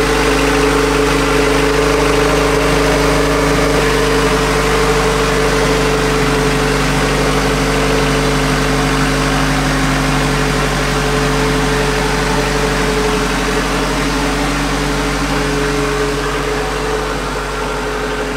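Built Honda B-series LS VTEC turbo engine running steadily at idle on fresh rod bearings, with the knocking noise still there. The owner is not sure of its cause and wonders whether it is the VTEC lost motion assemblies.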